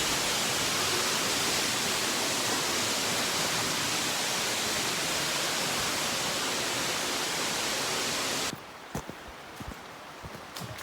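Steady rush of a large waterfall heard close up, an even wall of water noise. About eight and a half seconds in it cuts off suddenly to a much quieter background with a few soft clicks.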